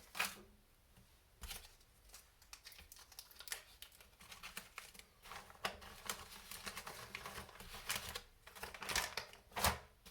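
Small kit hardware and parts bags being handled on a workbench: a string of light clicks and rattles with crinkling, the sharpest knocks at the start and near the end.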